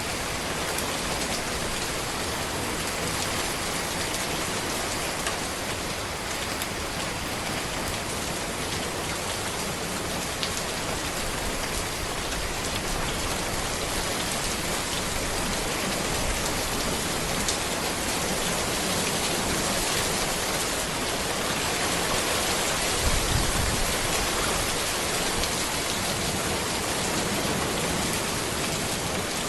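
Steady rain falling on a road, an even hiss with scattered drop ticks. A brief low rumble comes about three-quarters of the way through.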